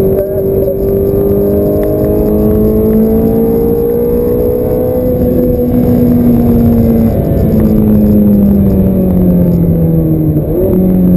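Ferrari F430's V8 engine, heard from inside the car, pulling in gear with its pitch slowly rising for about five seconds, then easing off and falling, with a shift about seven seconds in and a brief rev blip near the end as it downshifts.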